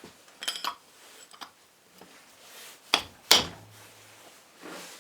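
Starter motor parts and tools being handled on a workbench: a short metallic rattle, a small click, then two sharp knocks a third of a second apart.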